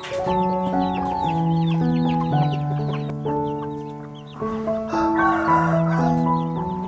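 Chickens calling, a steady run of short, high, falling peeps with a harsher squawk about five seconds in, over background music of slow held notes.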